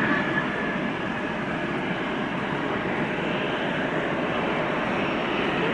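Jet engine noise of a J-AIR regional jet airliner landing: a steady, even roar.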